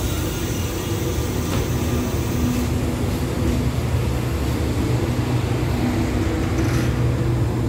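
Passenger coaches of a departing express train rolling past along the platform: a steady rumble of wheels on the rails. A high hiss fades out about three seconds in.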